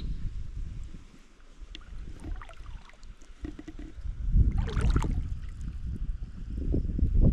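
Water splashing and sloshing over a low, uneven rumble, with a louder splash about four and a half seconds in.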